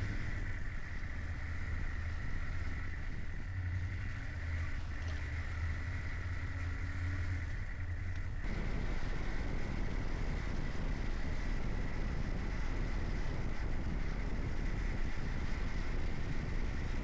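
Motorcycle riding: a low, steady engine drone at first. About halfway through it changes abruptly to a louder rush of wind and road noise, as when riding at speed.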